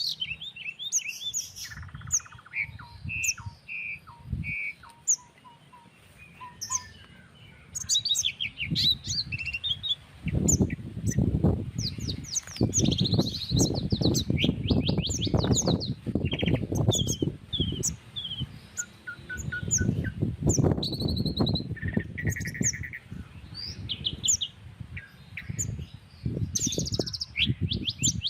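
Several birds chirping, trilling and whistling over one another in a rural outdoor chorus. From about eight seconds in, uneven gusts of wind rumble loudly on the microphone under the birdsong.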